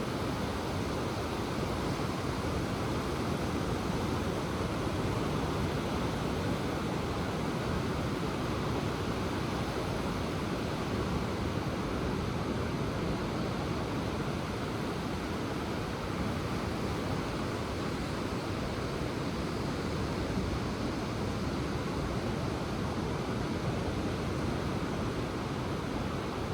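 Ocean surf washing onto the shore, a steady rush of noise at an even level, with no single breaker standing out.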